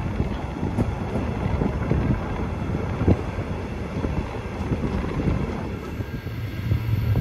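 Passenger train running, heard from on board: a steady rumble of wheels on track with a few short knocks.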